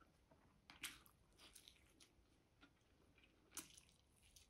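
Faint eating sounds: braised chicken being chewed and bitten, with a few short mouth clicks and smacks.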